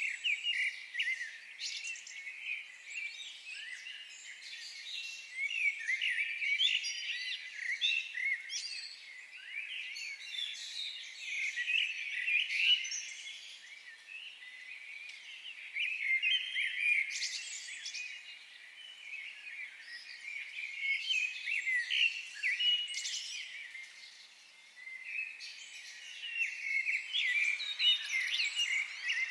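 Many wild birds singing and calling at once, a dense chorus of short overlapping chirps and trills that eases briefly a couple of times.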